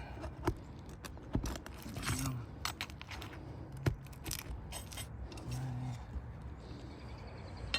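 Scattered clicks, knocks and scraping as an asphalt roof shingle is tugged at and worked with a tool, without coming free.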